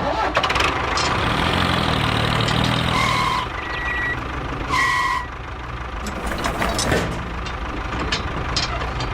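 Heavy vehicle engine running steadily, with two short electronic beeps like a reversing alarm about three and five seconds in.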